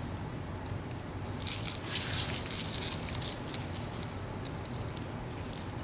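Plastic packaging crinkling and rustling for about two seconds as it is pulled off the kettle's parts, with a sharp click partway through.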